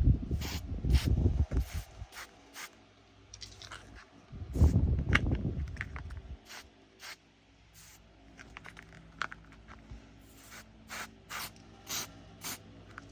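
Hands working with small plastic bags and containers of diamond painting drills: rustling and low handling bumps, with many sharp little clicks scattered throughout.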